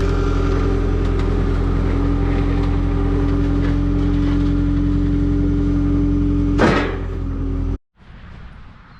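An engine running steadily at constant speed, with a short noisy burst near the end. The sound then cuts off suddenly and only faint background remains.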